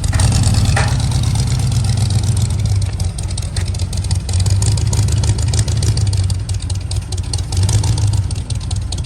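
1978 Ford truck's engine running with a steady low drone, its level rising and falling slightly.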